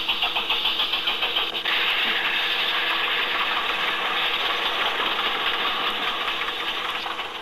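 Narrow-gauge train coaches running over the track: a quick, regular clicking for the first second and a half or so, then a steady mechanical rattle.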